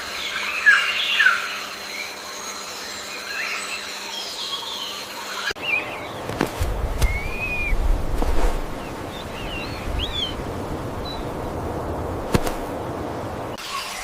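Birds chirping outdoors, a scatter of short calls. About five and a half seconds in the recording changes abruptly to one with a low rumble and a few sharp clicks, with fewer chirps.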